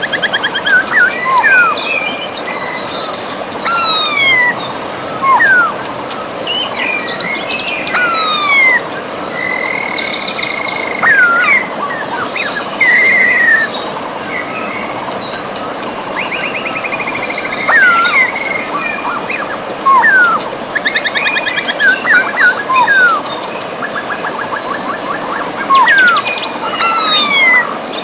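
Many birds singing and calling over the steady rush of a river: sharp down-slurred whistles, rising chirps and quick buzzy trills, several birds overlapping throughout.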